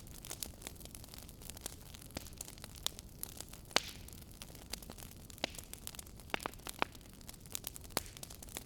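Wood fire crackling in a fireplace: irregular sharp pops and snaps over a low steady hiss of burning, with one louder pop a little before the middle.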